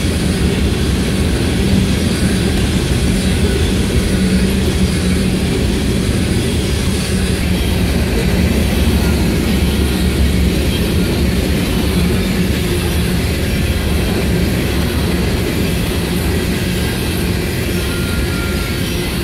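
Loaded coal hopper cars of a freight train rolling past close by: a steady, heavy rumble and rattle of wheels on rail.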